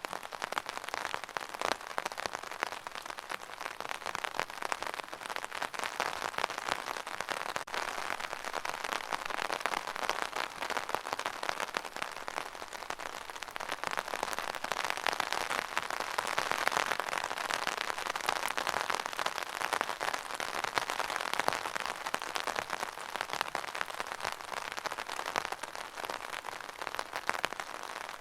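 Steady rain falling, a dense, even patter of drops that swells a little in the middle.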